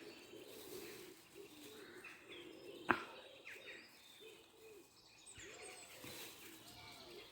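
Faint woodland ambience with birds calling: soft low wavering calls and a few high chirps. One sharp click about three seconds in.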